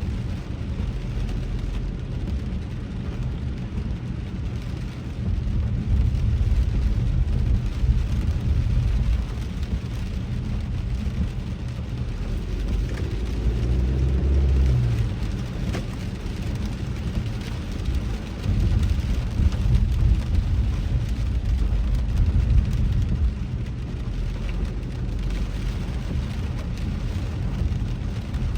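Road noise inside a moving car on wet streets: a low rumble of tyres and engine that swells and eases, under a steady hiss of rain and spray.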